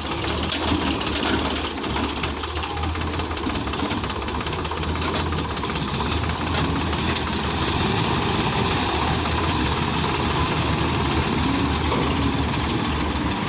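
Sonalika DI 750 tractor's diesel engine running steadily, a little louder from about halfway through.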